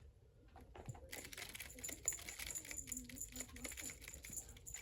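Rapid, irregular light clicking and rattling, starting about a second in.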